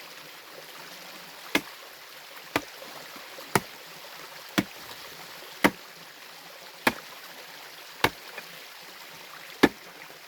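A hand tool swung hard against stream bedrock to break it: eight sharp strikes about a second apart, the first about one and a half seconds in, over the steady rush of a stream.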